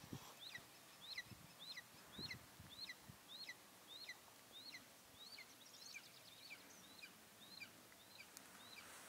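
A bird calling a long, even series of short, sharply falling high notes, about two a second, with a brief rapid twitter about halfway through.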